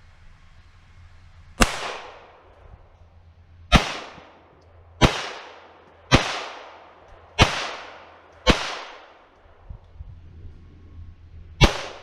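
.22 LR rimfire shots from a Ruger Mark III 22/45 target pistol: seven sharp cracks, each with a short trailing echo. The first six come at an uneven pace, and the last follows a pause of about three seconds.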